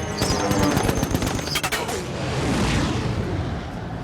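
Film soundtrack of a WWII bomber air battle: bursts of rapid machine-gun fire, with a rushing noise that swells and fades about halfway through.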